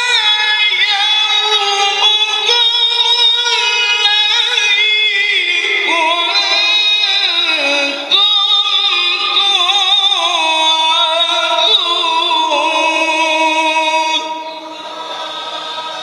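A male qari reciting the Quran in the melodic mujawwad style: one high voice holding long, ornamented notes with wavering pitch that glide up and down. The voice drops in level about two seconds before the end.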